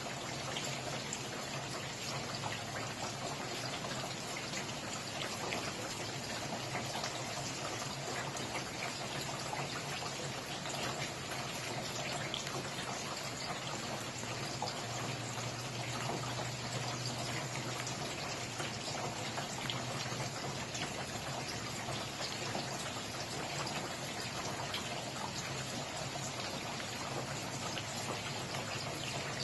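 Steady rain, with many fine drop ticks over a continuous hiss.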